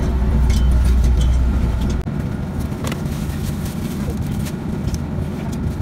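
Steady low rumble of a sleeper train carriage's interior, its deep hum dropping away suddenly about two seconds in, with a few light knocks and rustles from bedding handled against the metal berth ladder.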